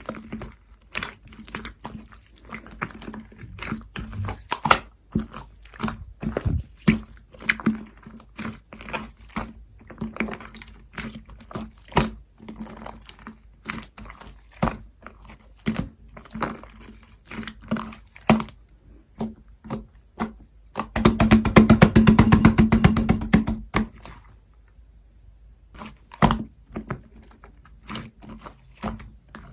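Cream slime being squeezed, poked and stretched by hand, giving a stream of sticky clicks and pops. For about three seconds near the end it breaks into a dense, rapid crackle of clicks.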